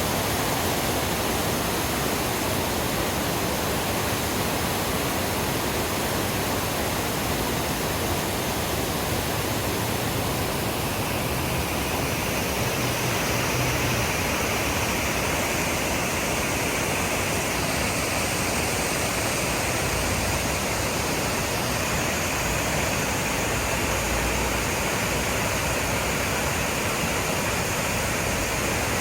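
Small waterfall on a creek, water falling and splashing in a steady, even rush.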